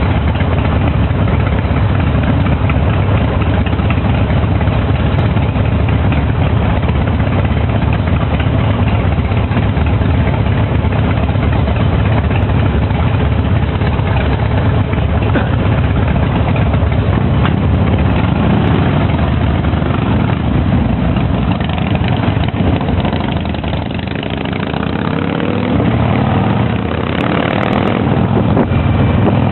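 Harley-Davidson V-twin motorcycle engines running steadily. The sound drops slightly a little over twenty seconds in and comes back up near the end.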